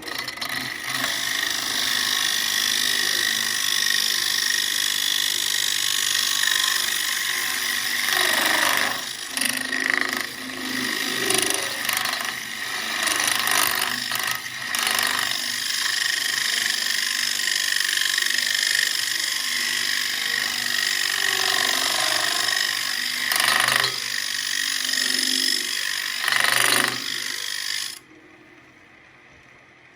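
Central Machinery wood lathe spinning an ambrosia maple bowl blank while a tool works against the wood: a steady scraping hiss that swells and dips, then stops abruptly a couple of seconds before the end.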